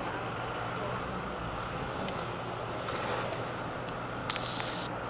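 Steady hum of distant road traffic, with a few faint ticks and a brief high hiss a little over four seconds in.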